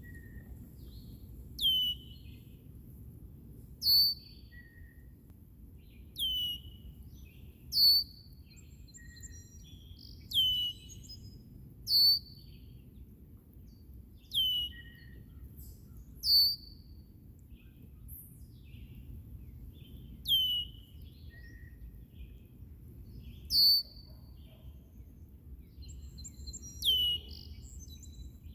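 Songbird calling over and over, one loud, sharply falling call with a short buzzy tail about every two seconds, most likely the red-winged blackbird. Fainter chirps from other birds come in between, over a steady low rumble.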